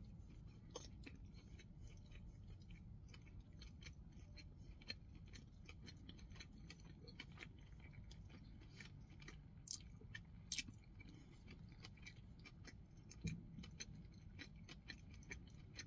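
Quiet chewing of a burger with bacon and onion rings, mouth closed: faint soft clicks and smacks throughout, a few louder clicks about ten seconds in, and a low thump near the end.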